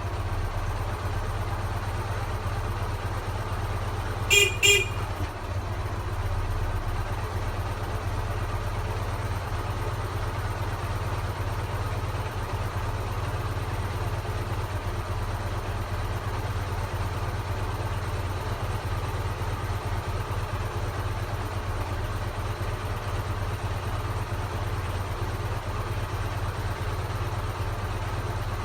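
Ural 8.103.10 motorcycle's flat-twin engine idling steadily just after starting. Its horn gives two short beeps about four seconds in.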